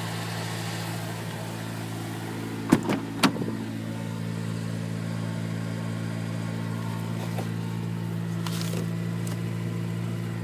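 Supercharged Honda Civic Si's 2.0-litre four-cylinder engine idling steadily just after a cold start in freezing weather, running smoothly without squeaks. A few sharp clicks come a little under three seconds in.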